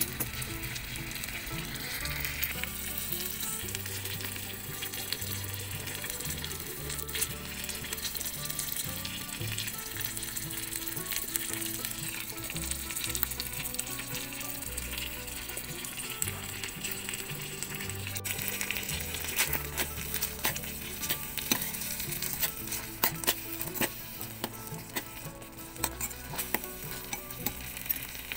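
Squid with ginger and chili sizzling in oil and sauce in a miniature steel pot: a steady crackling hiss with many small pops.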